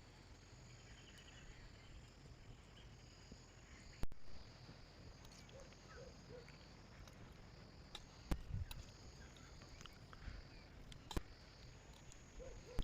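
Insects chirring steadily in forest, with a few sharp clicks about four, eight and eleven seconds in.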